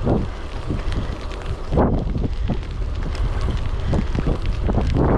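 Wind buffeting a chest-mounted GoPro microphone on a moving bicycle: a steady low rumble with repeated gusty swells, the strongest about two seconds in.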